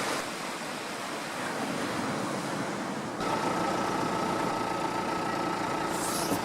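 Steady noise like wind and surf, then, after an abrupt cut about three seconds in, a steady mechanical hum with a few held tones.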